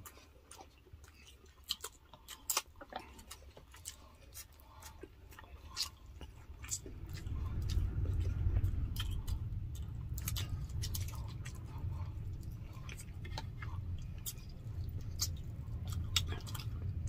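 Close-miked chewing and wet mouth clicks of people eating soft food by hand. A low rumble builds from about seven seconds in.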